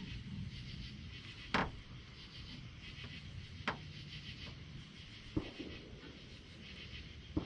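Night insects chirping in a steady, pulsing chorus, broken by four short, sharp knocks or clicks about two seconds apart.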